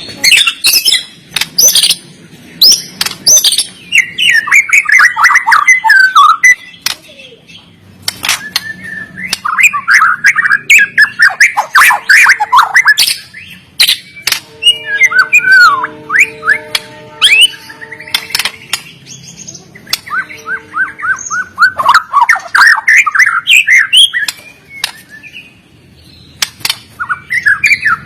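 White-rumped shama (murai batu) singing loudly in phrases of a few seconds, each a rapid run of varied whistled notes mixed with sharp clicks, with short pauses between phrases. About halfway through, a low steady tone at a few pitches hums under the song for a few seconds.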